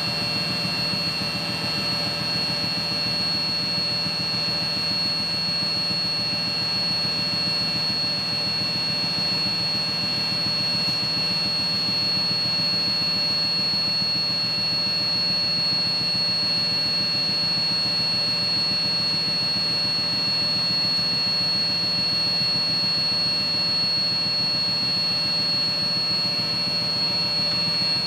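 Steady mechanical-room noise of an air handling unit running: a constant low hum with a steady high whine over it.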